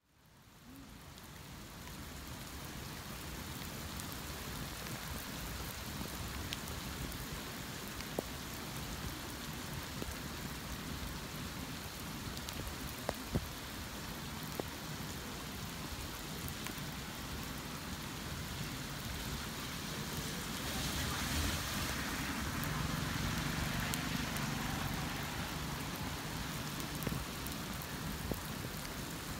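Steady heavy rain falling and splashing on surfaces, with scattered individual drops ticking. It fades in at the start, and a louder stretch with a low hum comes about two-thirds of the way through.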